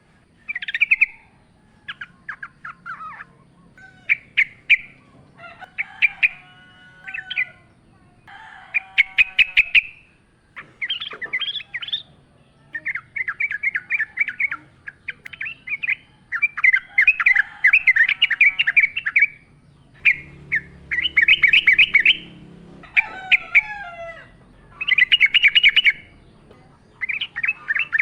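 Yellow-vented bulbul singing: repeated short bursts of rapid bubbling notes with brief pauses between them, and a few lower calls mixed in.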